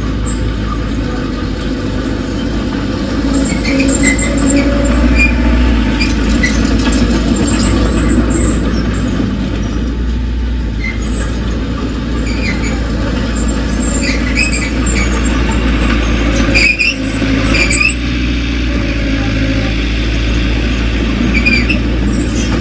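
Bulldozer working, its diesel engine a steady low drone, with many short high squeaks from its steel crawler tracks.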